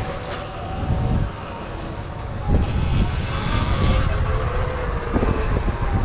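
Riding an electric dirt bike: wind rumbling on the microphone, with a faint motor whine that rises and falls.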